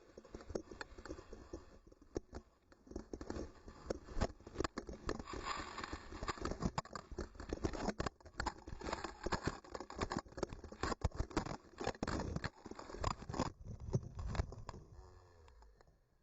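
Skis clattering and scraping over hard snow, with many quick irregular knocks and thumps that die away near the end.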